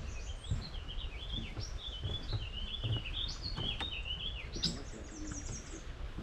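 A songbird singing one long, rambling song of rapid, jumbled warbling notes, which climbs to a quick run of higher notes near the end. Soft low thumps and a low rumble run underneath.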